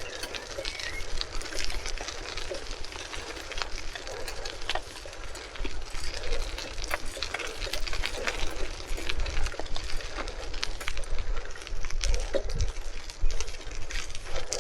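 Bicycle ride: a steady low rumble of wind on the microphone, with many small clicks and rattles through it.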